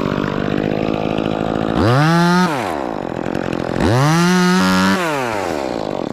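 Chainsaw running at idle, then revved to full throttle twice, the pitch sweeping up, holding and dropping back each time, the second burst about a second long, as it cuts a dead oak limb.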